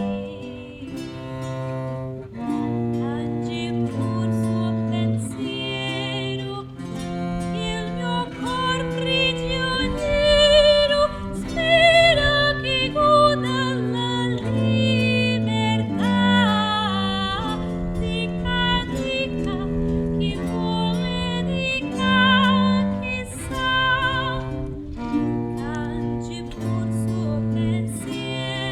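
Live acoustic performance of an early-Baroque Italian song: plucked string accompaniment over a bass line that repeats every couple of seconds, with a melody line with vibrato above it.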